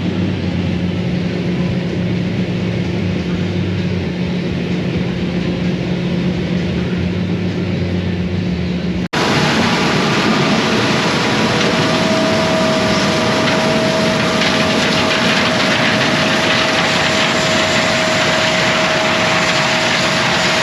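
A vehicle engine running with a steady low hum. About nine seconds in, the sound cuts abruptly to a louder, hissier machine noise with a steady whine.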